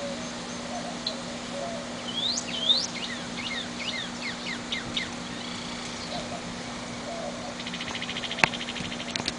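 Songbirds calling: two rising whistled notes, then a run of short down-slurred chirps, and a fast buzzy trill near the end. A single sharp click comes near the end, and a steady low hum runs underneath.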